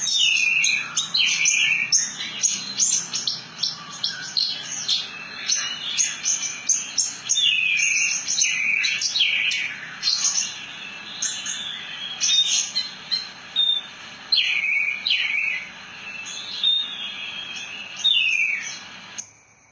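Javan bush lark (branjangan) singing a fast, unbroken song of high chirps mixed with downward-sweeping whistles. The song stops abruptly near the end.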